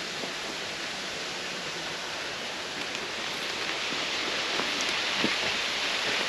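Steady rushing hiss of wind and road noise on a motorcycle rider's microphone while riding, growing louder about four seconds in.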